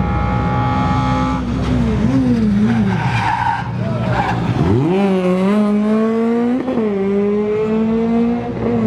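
Rally car engine in competition trim on a special stage, revving unevenly with tyre squeal, then dropping low and accelerating hard about halfway through, with quick gear changes near the end.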